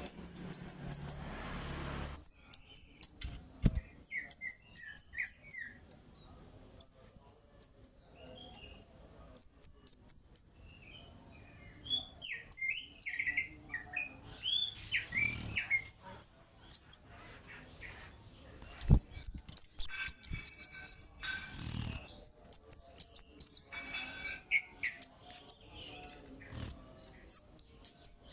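Cit kemade songbird giving its sharp, high-pitched 'cit' chirps in rapid runs of three to six notes, repeating every second or two, with some lower, sliding notes near the middle. These are hard chirps of the kind used as a lure call to get caged birds to answer.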